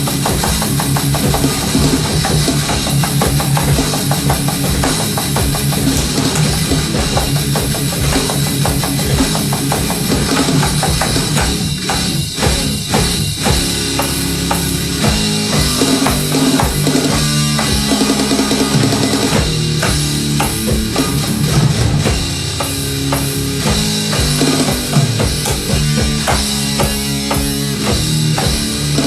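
A rock band playing live: a drum kit with bass drum and snare keeping a dense, driving beat under guitar and bass, loud and steady throughout.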